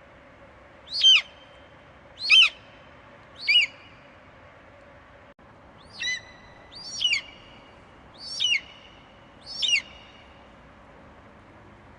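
An eagle screeching: seven short, high-pitched calls, each falling in pitch, three in the first four seconds and four more after a pause of about two seconds.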